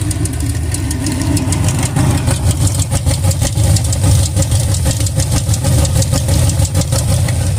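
Petrol engine running on a carburetor test, fitted with a freshly rebuilt carburetor, with a rapid, even beat of firing pulses. It gets slightly louder about two seconds in.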